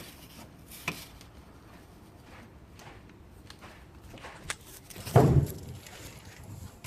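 Scattered clicks and knocks, with one heavy low thud about five seconds in, like footsteps or something being knocked on a bare concrete floor.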